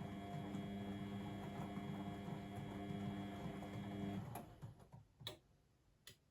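Blomberg WAF 7442 SL washing machine running with a steady electrical hum and a fine ticking, which cuts off about four seconds in; three sharp clicks follow.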